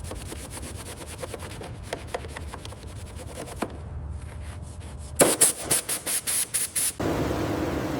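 Hand scraping or sanding: a stretch of fine scratchy clicks, then a quick run of about nine back-and-forth strokes near the end, followed by a steady hiss.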